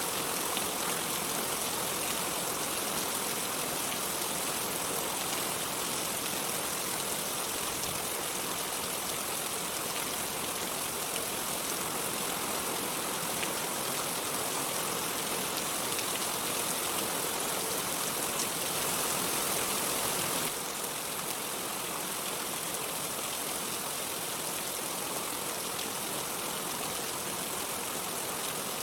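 Steady rain falling, an even hiss of dense drops with no thunder, dipping slightly in level about twenty seconds in.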